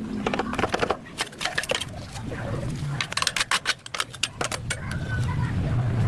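A quick, irregular run of sharp clicks and clatter, with a low hum rising near the end.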